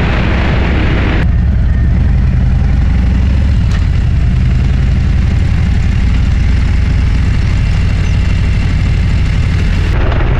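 Motorcycle engine running steadily at road speed, a deep rumble with wind rushing over the microphone; the wind hiss drops away sharply about a second in.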